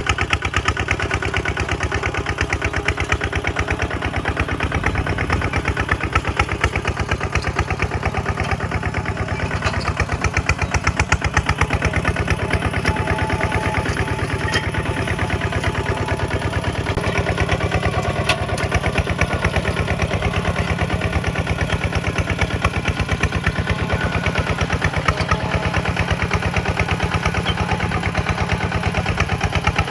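Kubota tractor's diesel engine running steadily with a rapid, even firing beat.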